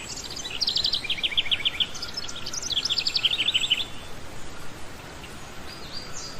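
Small birds chirping: two runs of rapid, evenly repeated high chirps, each a little over a second long, then a few fainter calls near the end.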